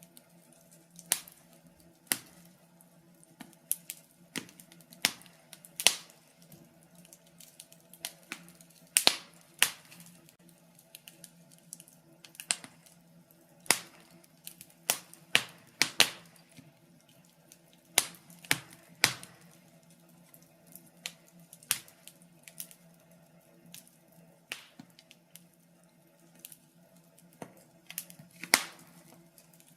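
Wood fire crackling in a fireplace: sharp, irregular pops about once a second, some coming in quick clusters, over a faint steady low hum.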